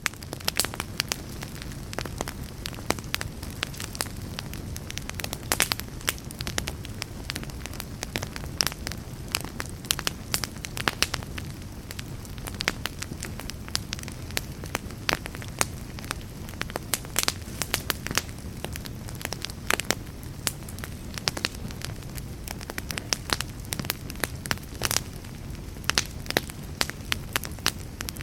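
Log fire burning in a fireplace: frequent irregular sharp pops and crackles over a steady low rumble of flame.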